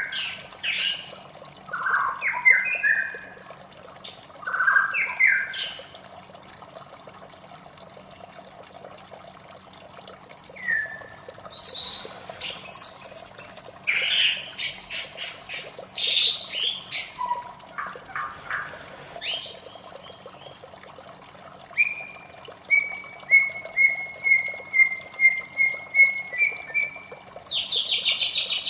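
White-rumped shama singing: varied whistled phrases and sharp chip notes, with a pause of a few seconds early on and a run of quick repeated notes stepping slightly down in pitch near the end. A faint steady water sound runs underneath.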